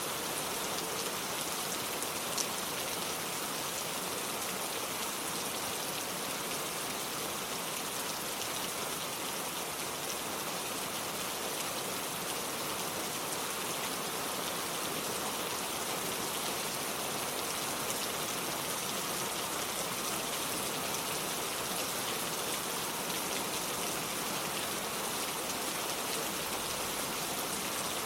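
Steady rain falling, an even hiss with an occasional louder drop.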